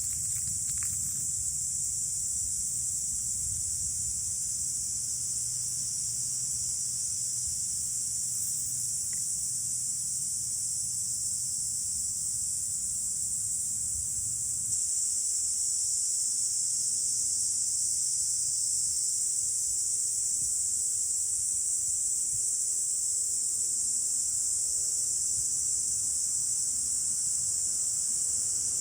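Steady high-pitched chorus of insects such as crickets, shrilling without a break. A low rumble sits under it for the first half and drops away about halfway through.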